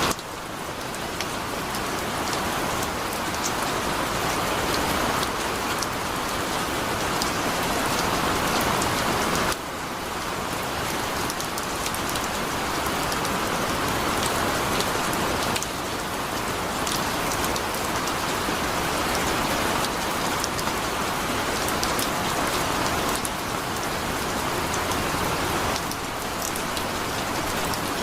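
Heavy rain pouring down steadily, with scattered sharp drip ticks in the downpour. The level drops suddenly a few times and swells back up over several seconds.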